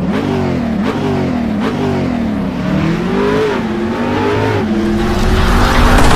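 Bajaj Pulsar 200 motorcycles' single-cylinder engines revving, the pitch climbing and dropping again and again, then growing louder and steadier from about five seconds in.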